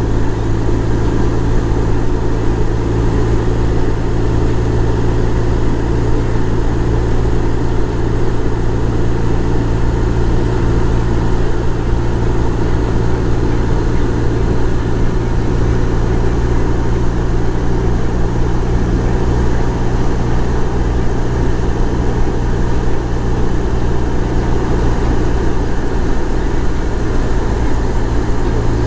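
BMW R1200 boxer-twin motorcycle engine running at a steady, unchanging pitch, cruising without gear changes or revving.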